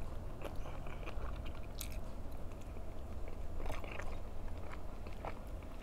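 A person chewing a mouthful of chicken adobo close to the microphone, with scattered wet mouth clicks and a few louder smacks, over a steady low hum.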